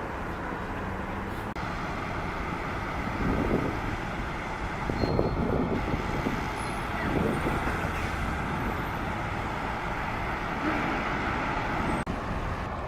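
Road traffic: vehicle engines and tyre noise, steady, with a few louder swells as heavier vehicles go by.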